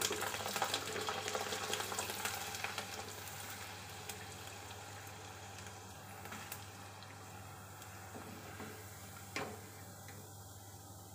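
Sago (sabudana) papad deep-frying in hot oil in a kadai, sizzling and crackling as it puffs up; the crackle is loudest for the first few seconds, then eases to a softer steady sizzle. One sharp click sounds about nine seconds in.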